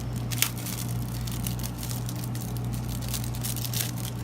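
Plastic packaging crinkling and tearing in handling, a string of light crackles with a sharp click about half a second in, over a steady low hum.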